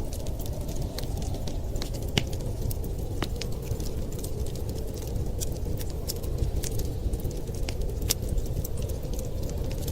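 Fireplace fire crackling, with scattered sharp snaps and pops, over a steady low rush of winter storm wind.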